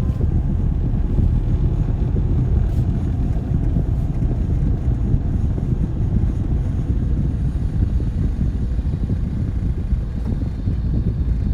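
Road and engine noise of a moving car: a steady low rumble that holds even throughout.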